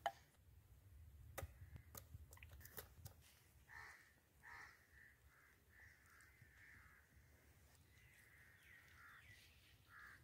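Faint bird calls: a run of short calls about half a second apart from about four seconds in, running into a longer drawn-out call near the end. A few sharp clicks in the first three seconds.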